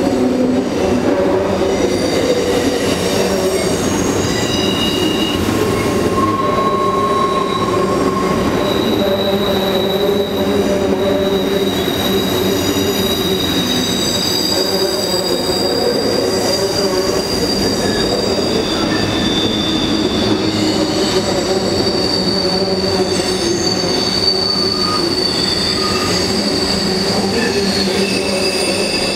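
Freight train of covered grain hopper cars rolling across a steel trestle bridge: a steady rumble of wheels on rail with long, drawn-out high wheel squeal.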